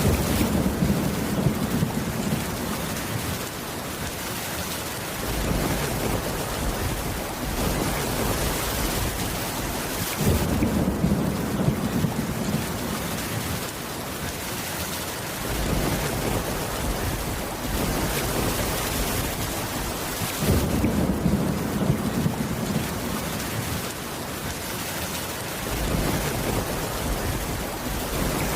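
Steady heavy rain with a low rumble of thunder swelling about every ten seconds, three times.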